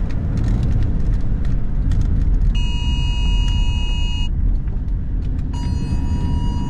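Car cabin noise while driving: a steady low road and engine rumble. A steady electronic tone with several pitches sounds for about a second and a half, stops, and starts again about a second later.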